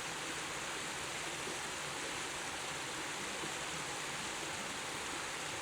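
Steady, even rush of a waterfall's falling water, unchanging throughout.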